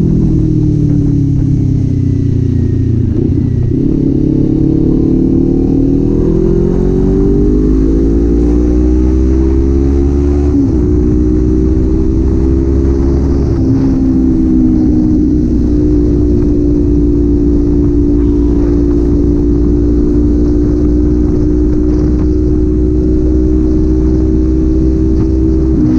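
Kawasaki Z400 parallel-twin engine and exhaust heard while riding: engine speed drops over the first few seconds, then climbs, with shifts up through the gears about ten and fourteen seconds in, before settling into a steady cruise.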